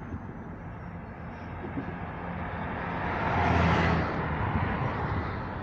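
Road traffic: a steady low engine hum, with a passing vehicle's noise swelling to a peak between three and four seconds in and then fading.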